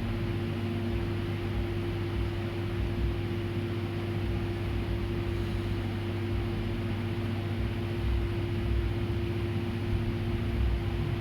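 A steady mechanical hum: a low drone with a higher steady tone above it over an even hiss, unchanging throughout.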